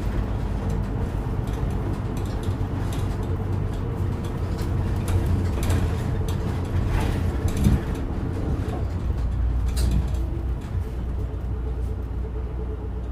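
Inside a route bus on the move: steady engine and road rumble with a faint steady whine and scattered rattles and clicks from the bus body.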